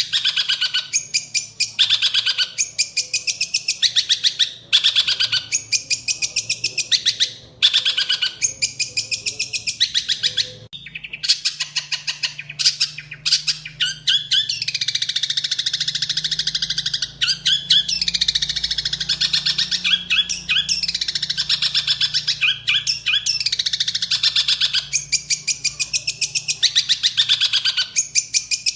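Long-tailed shrike (cendet) singing a loud, fast, harsh chattering song, with fill-ins copied from sparrows. For about the first ten seconds it comes in short rapid-fire bursts with brief pauses; from about eleven seconds on it runs as a longer unbroken stream of varied notes and glides.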